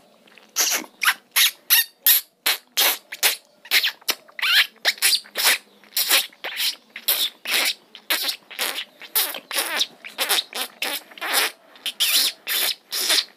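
A man mimicking a small bird's call with his mouth: rapid, short, high chirps, about three or four a second, some with a quick warble in pitch.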